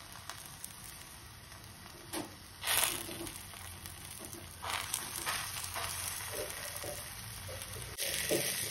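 Thalipeeth frying in peanut oil on a hot cast-iron tawa, a soft steady sizzle. A few brief louder bursts come about two, three and five seconds in.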